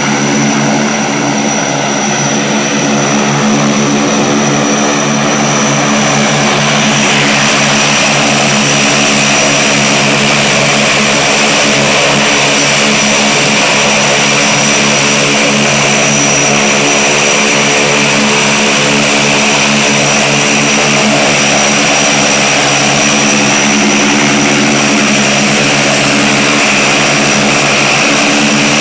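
A small propeller plane's engine running loud and steady, with an even drone and a thin high whine over a rushing hiss; it builds up a little about seven seconds in, then holds.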